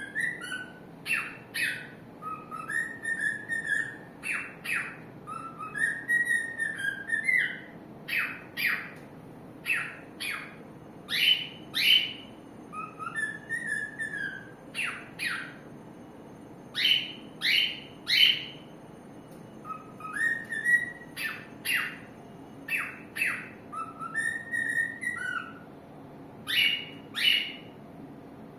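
Pet cockatiel singing: whistled warbling phrases that glide up and down, mixed with short, sharp rising chirps, repeated in bursts with brief pauses.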